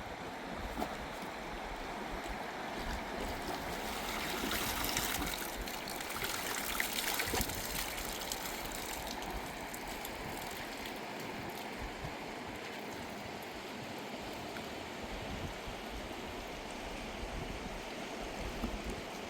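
A mountain river running over stones, a steady rush of water that swells for a few seconds near the middle, with a few short knocks.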